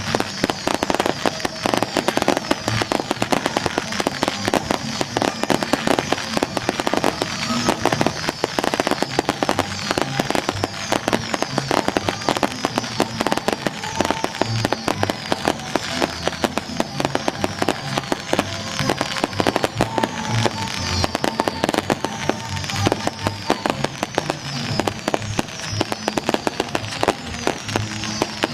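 A long string of firecrackers going off continuously in a rapid, dense crackle of bangs that does not let up, with music playing alongside.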